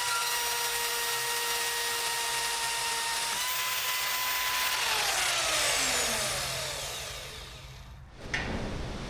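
Angle grinder running at speed with a steady whine, then switched off about five seconds in and spinning down, its whine falling away. A short noisy burst near the end.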